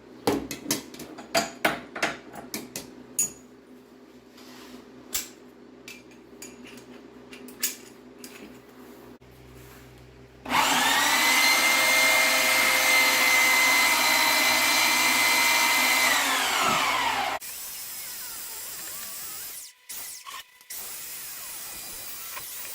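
Scattered clicks and knocks, then an electric winch motor running under load for about seven seconds: a loud steady whine that winds down in pitch as it stops. A quieter steady hum follows.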